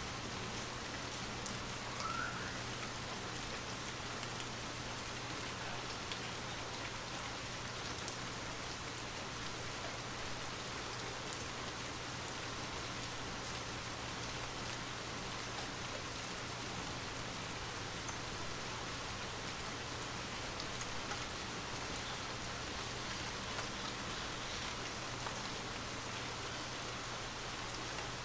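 Steady rain falling: an even hiss of drops with a few sharper individual drops.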